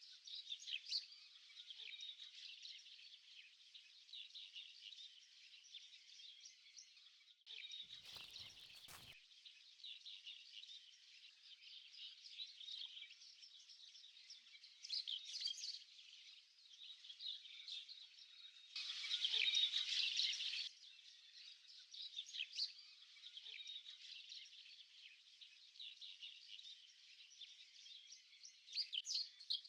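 A dense, continuous chorus of high chirps and trills from swamp wildlife, with a louder stretch of about two seconds roughly two-thirds of the way through. A brief rustle or knock comes about eight seconds in.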